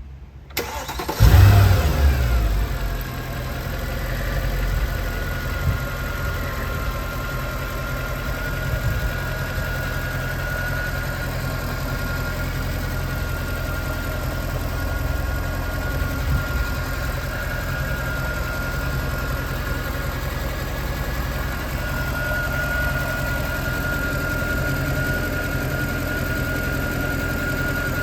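Mercedes-Benz CL63 AMG's 6.2-litre V8 being started: a brief crank, then it catches about a second in with a loud flare that falls away within a second or so, and settles into a steady idle.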